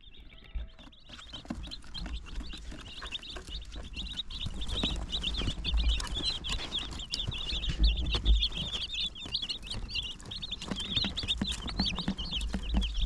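Young meat-bird chicks peeping continuously, many short high chirps overlapping in a dense chorus.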